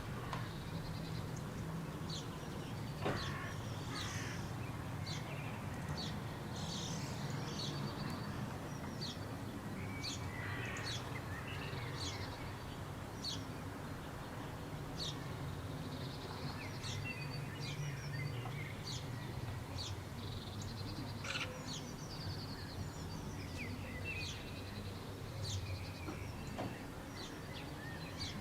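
Birdsong: many short, high chirps from small birds, with a few harsh, chattering calls of a Eurasian magpie mixed in. A steady low rumble runs underneath.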